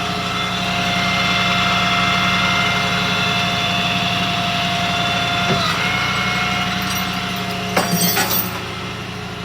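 Flatbed tow truck's hydraulic system running with a steady, high whine over the truck's engine hum as the bed is worked. The whine dips briefly past the middle, then stops about eight seconds in amid a short burst of metallic clattering.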